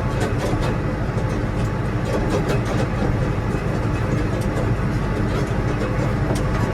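A vehicle engine running steadily with a low hum, with scattered rattles and knocks over it.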